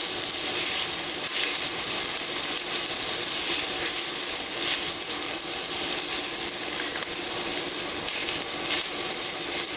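Chopped vegetables, carrots among them, sizzling steadily in oil in an enameled cast-iron skillet as they soften, with a few light scrapes of stirring.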